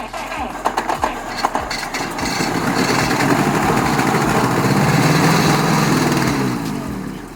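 GAZ M20 Pobeda's side-valve four-cylinder engine turned over by the starter at about three compression strokes a second, then catching about two seconds in and running for some four seconds before it slows and dies near the end. The engine fires but won't keep running after standing unused for some 20 years.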